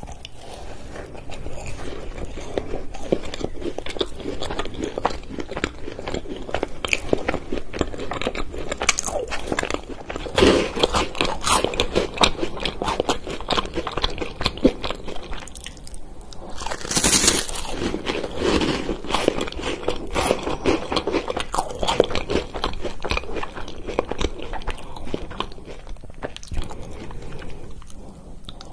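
Close-miked biting and chewing of chocolate snacks: crisp crunching of a chocolate-coated wafer bar and nut-crusted chocolate, with steady crackly chewing between bites. A few louder crunchy bites stand out, about ten seconds in and again around seventeen and eighteen seconds.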